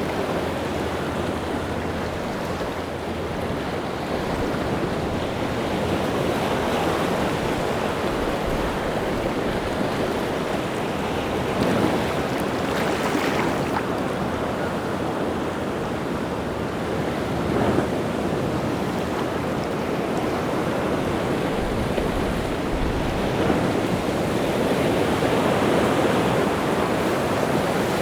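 Rough sea surf breaking on the shore in a continuous rushing wash, swelling and easing with the waves, a couple of stronger breakers standing out briefly.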